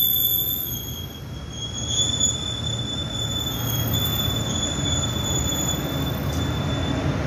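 Steel train wheels squealing against the rails: a high, slightly wavering squeal over the low rumble of a rolling train. The squeal stops near the end while the rumble carries on.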